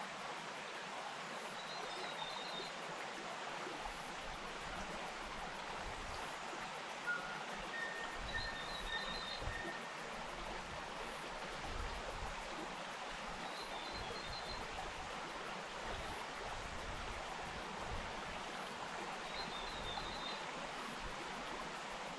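A bush stream flowing, a steady rush of water. A short high chirping call comes back four times, about every six seconds.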